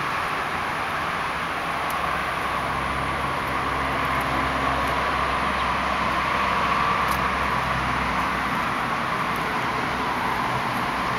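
Low, steady engine hum of a car from about two seconds in until near the end, over a constant hiss.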